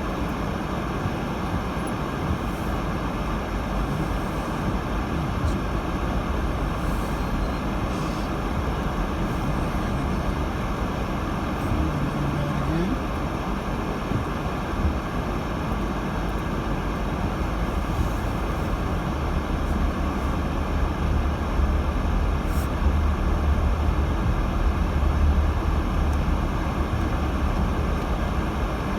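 Steady road and engine noise inside a 2018 Subaru Crosstrek's cabin, driving on a snowy road. A brief rising tone comes about twelve seconds in, and the low rumble grows heavier in the last third.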